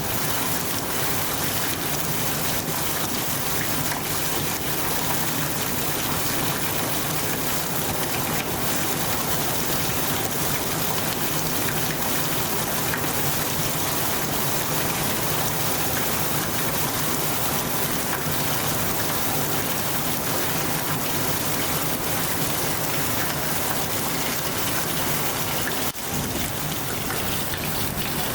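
Heavy rain pouring steadily, a dense, even hiss of drops spattering on surfaces.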